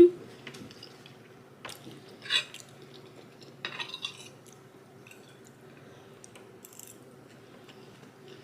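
Close-miked eating sounds: a heavy bump right at the start, a loud wet mouth noise about two and a half seconds in, and scattered small clicks and smacks.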